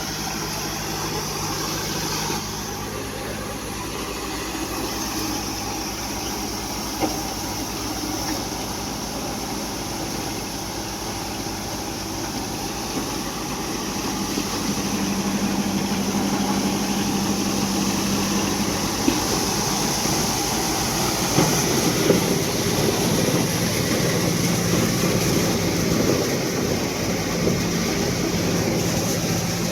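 Kubota 4501 tractor's diesel engine running steadily, growing louder about halfway through.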